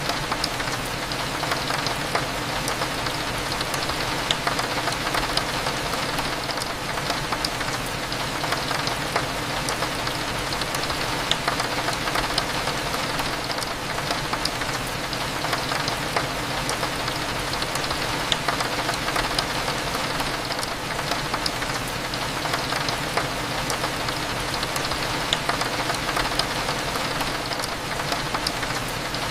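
Steady rain hitting a window, with scattered sharp ticks of single drops, over a low steady hum.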